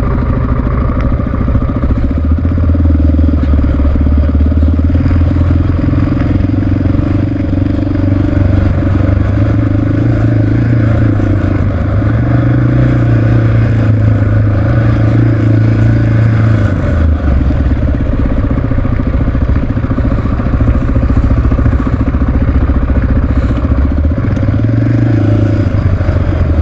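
Honda XR650R single-cylinder four-stroke dirt bike engine running as the bike rides downhill on a rough dirt road, its note steady with a few shifts up and down in pitch as the throttle changes.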